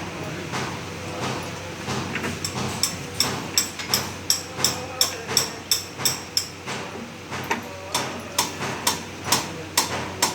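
Series of sharp metallic taps, like a light hammer striking metal, about three a second, with a short pause and then resuming toward the end.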